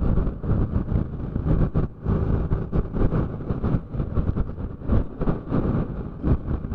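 Motorcycle on the move: engine and road noise mixed with wind rushing over the microphone, rising and falling unevenly.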